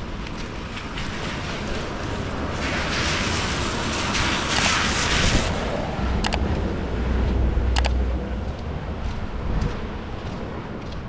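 Traffic on a wet street: a vehicle's tyres hiss past on the wet road from about three to five seconds in. A low engine rumble follows, with a few light ticks.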